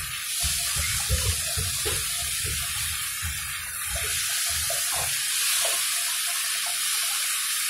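Onions, garlic, pork and tomatoes sizzling in oil in a nonstick pan, with a spatula scraping and knocking against the pan as they are stirred. The stirring knocks are dense for about five seconds, then thin out.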